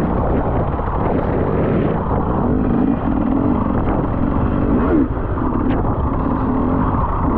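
Enduro motorcycle engine running under heavy wind buffeting on the microphone, its note shifting in pitch with a brief rise about five seconds in.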